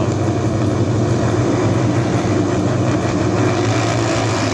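Motorcycle engines running together in a steady low drone, with no clear rise or fall in pitch.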